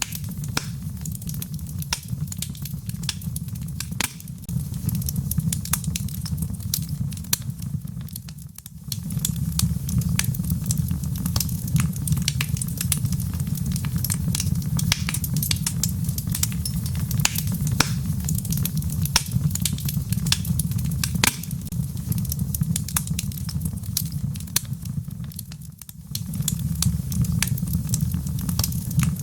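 Wood fire crackling, with frequent sharp pops over a steady low rumble, mixed with rain. The sound briefly fades twice, about a third of the way in and near the end.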